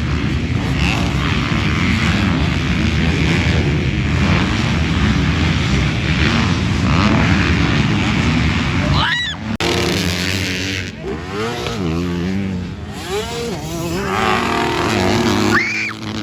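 Motocross dirt bike engines racing, their pitch climbing and dropping as riders work the throttle and shift. The first half is a dense, rough rumble; after about nine seconds individual engines stand out, revving up and down several times.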